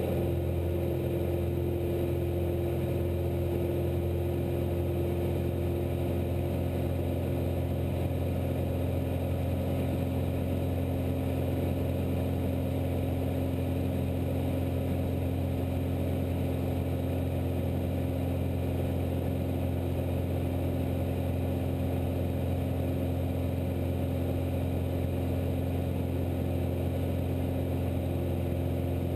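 Cessna 172's piston engine and propeller droning steadily as heard inside the cockpit, with a slight drop in one of its tones in the first several seconds.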